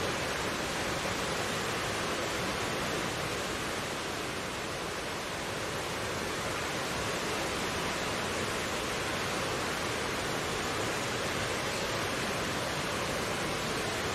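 Mountain stream flowing and rushing over rocks: a steady, even splashing wash of water.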